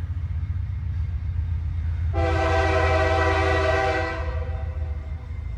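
Diesel locomotive's multi-tone air horn sounding one held blast of about two seconds, starting about two seconds in, over a steady low rumble of the approaching train.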